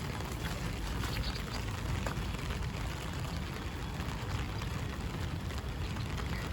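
Rain pattering on an umbrella overhead: many small drop ticks over a steady hiss, with a steady low rumble underneath.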